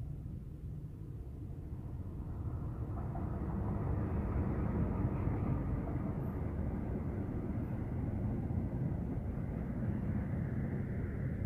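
A diesel locomotive-hauled passenger train passing close by: the rumble of the locomotive and wheels grows over the first few seconds, then the coaches roll past steadily on the rails.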